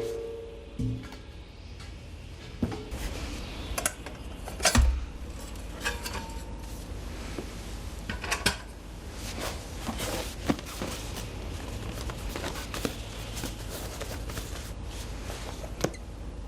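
Metal parts of a secondary-combustion fire pit stove clinking and knocking as they are taken apart and handled, with a heavier knock about five seconds in.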